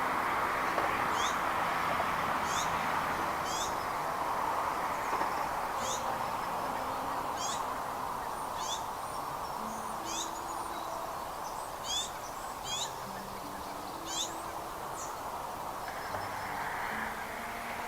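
Bald eagle calling: a series of short, sharp, high-pitched chirps, roughly one a second with gaps, over a steady rushing background noise.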